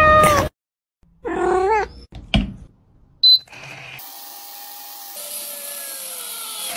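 A cat meowing, twice, then a click, a brief high beep, and from about the middle a steady hiss.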